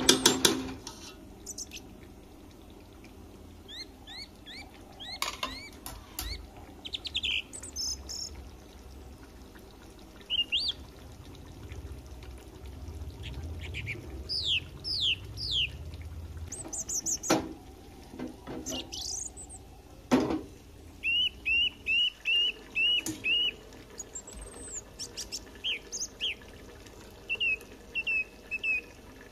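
Birds chirping and calling, including a run of about seven quick repeated notes about two-thirds of the way through. A few sharp knocks stand out, the loudest right at the start.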